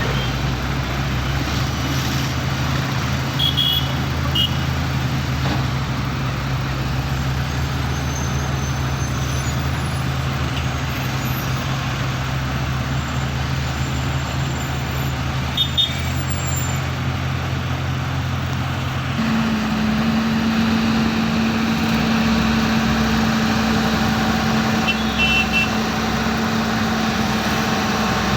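JCB loader's diesel engine running steadily, then stepping up to a higher engine speed about two-thirds of the way through and holding there, as when the machine is put to work.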